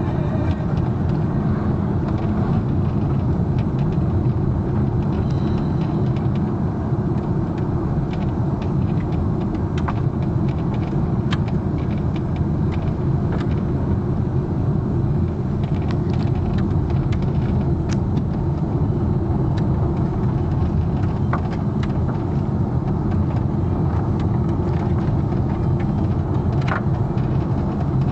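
Steady rumble of a car on the move, engine and tyre noise heard from inside the cabin, with a few faint ticks scattered through it.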